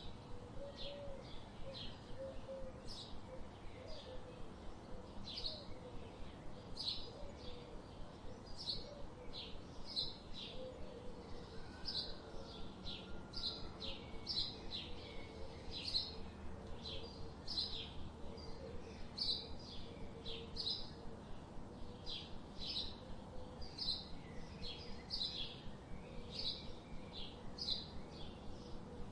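Bird chirping over and over, short high chirps coming about one or two a second, over a faint steady background.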